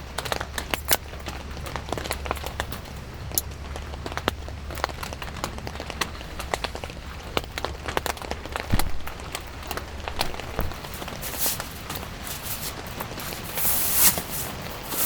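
Raindrops tapping irregularly on a tent tarp, many sharp ticks at uneven spacing, with a louder rustle about thirteen to fourteen seconds in.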